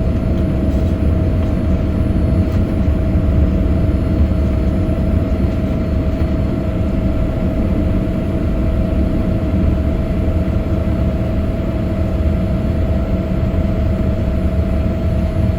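Boeing 787 jet airliner during takeoff: a steady low rumble with a constant tone above it.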